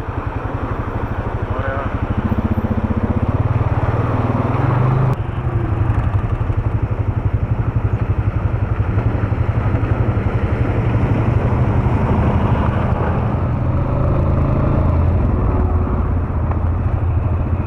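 ATV engine running steadily as the quad is ridden along a trail, with a sudden change in the sound about five seconds in.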